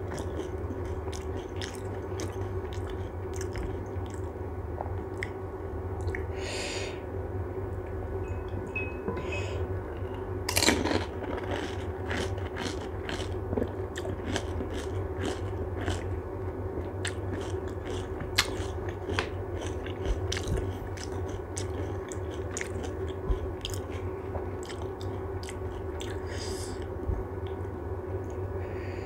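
Close-miked chewing of pani puri: the crisp hollow puris crunching and squelching with their spicy water, in many small mouth clicks, with one louder crunch about ten seconds in.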